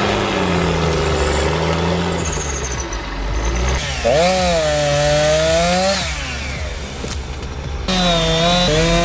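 An engine running hard, its pitch swinging up and down as it revs, with the sound changing abruptly a few times.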